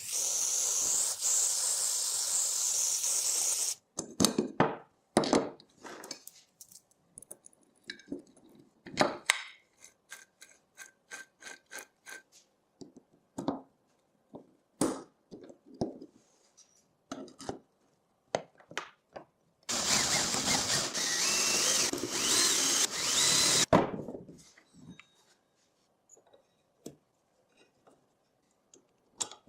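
Workshop tool noise: two bursts of a steady running sound, each about four seconds long, one at the start and one about two-thirds of the way in. Between them come scattered clicks and knocks of metal parts being handled.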